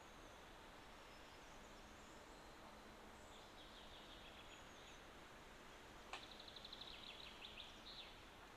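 Faint outdoor ambience with distant small-bird calls: a few high chirps, then a sharp click about six seconds in followed by a quick run of high chirps for about two seconds.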